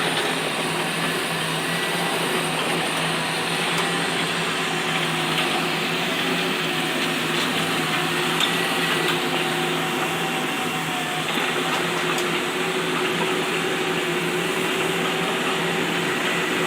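A motor running steadily: a continuous whirring noise over a low, even hum.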